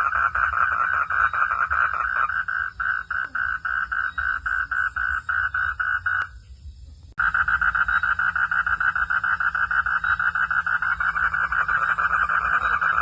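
A chorus of frogs calling in fast, even pulses, about five a second. It breaks off for about a second just past halfway and starts again abruptly. A steady low hum lies underneath.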